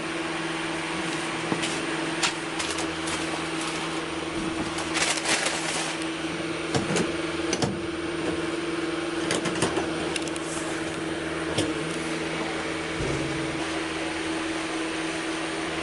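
Steady mechanical hum inside an AC sleeper train compartment, with one constant drone under a hiss and a few scattered clicks and knocks.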